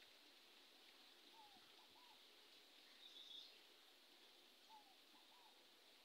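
Faint bird calls: a low three-note phrase, one falling note then two short arched notes, given twice about three seconds apart, with a brief higher chirp about three seconds in, over a steady outdoor hiss.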